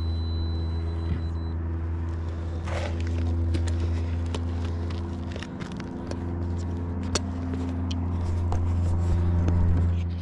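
Steady low machine hum, with scattered clicks and rustles of handling over it.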